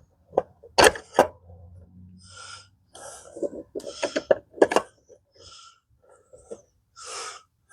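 Metal tools and parts clanking and knocking during work on a mini bike's wheel, with several short hissing bursts in between.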